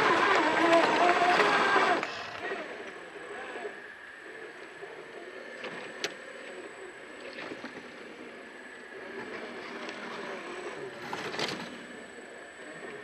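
RC scale truck's electric drive whining under throttle, its pitch wavering, until it cuts off suddenly about two seconds in. After that there is only a faint steady whine, with a few sharp clicks, one about six seconds in and some near the end.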